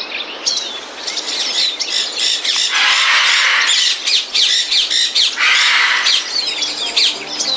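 Java sparrows chattering together, a dense run of short chirps and quick falling call notes with a couple of harsher, hissy squawking passages. Music comes in near the end.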